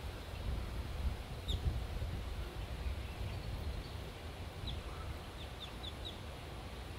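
A bird's short, high, falling chirps: one about one and a half seconds in, then a quick run of five in the second half, over a steady low outdoor rumble.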